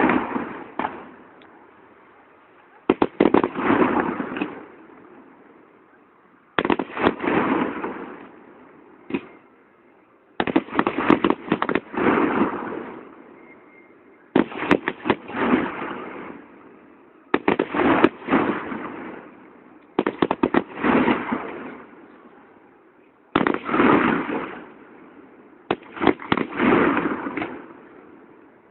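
Fireworks going off in bursts about every three to four seconds, each a quick run of sharp bangs that trails off into crackling.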